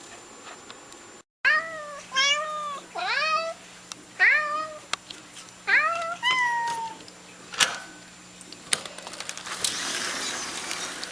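Bengal cat meowing, about six short rising-and-falling meows in quick succession. A couple of sharp clicks follow, then a steady hiss near the end.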